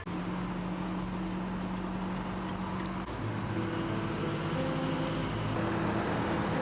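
Steady road noise of a vehicle driving, with background music playing over it.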